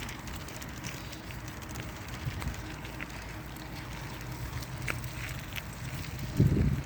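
Bicycle rolling along a dirt bush trail: a steady low rumble of tyres and wind on the microphone, with scattered small rattles and clicks, and a louder low thump near the end.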